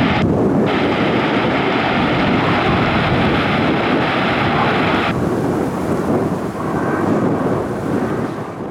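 Jet airliner engines heard as a loud, steady rumble, with a higher hiss that drops away about five seconds in.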